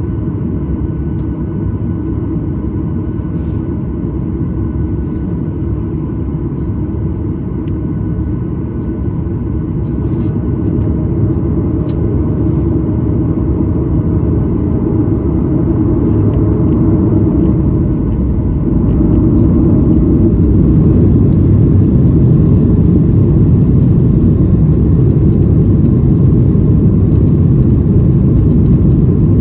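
Inside the cabin of a Boeing 737-900ER, a steady low rumble of the CFM56 engines and airframe. It grows louder about a third of the way in and steps up again about two-thirds in, then holds steady and louder.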